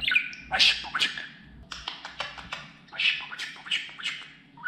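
Budgerigar warbling: a quick run of chirps, clicks and scratchy squawk-like notes, broken by short gaps.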